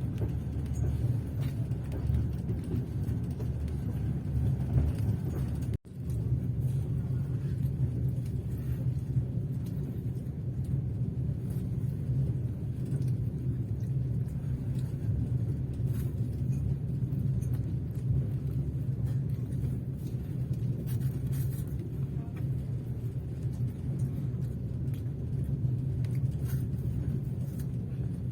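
A passenger train running steadily, heard from inside the carriage: an even low rumble of the wheels on the rails, with faint scattered clicks. The sound drops out for an instant about six seconds in.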